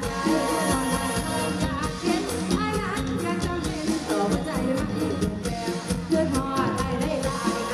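Mor lam band music with a singing voice over a steady drum beat.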